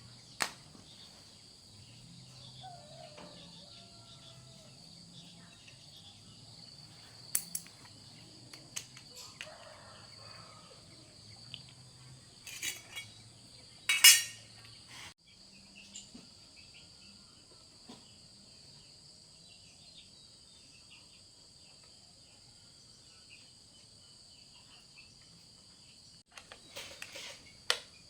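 Steady high-pitched chirring of crickets or other insects, with scattered metallic clinks and knocks, the loudest about fourteen seconds in.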